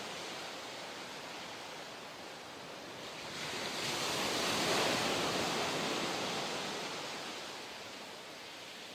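Ocean surf washing in: a steady rush with one wave swelling up about three and a half seconds in, peaking near the middle, then drawing back and fading.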